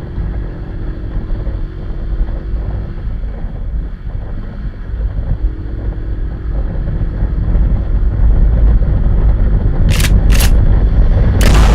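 Vehicle engine rumble with wind noise, growing louder in the second half. Two sharp pops about ten seconds in, then a louder bang near the end.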